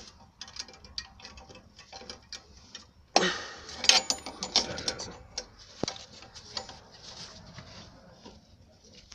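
Irregular light clicks and taps of hand work on a car's rear drum brake, with a louder clatter about three to four seconds in.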